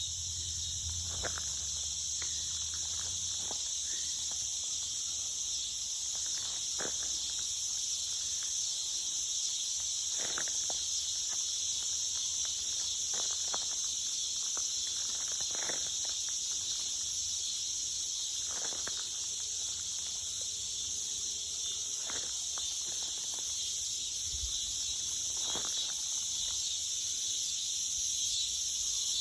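Steady, high-pitched chorus of insects, with scattered footsteps on a trail every second or few.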